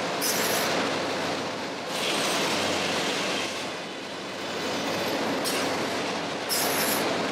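Heavy machinery running steadily, a dense mechanical noise with short high-pitched squeals or hisses near the start and twice near the end.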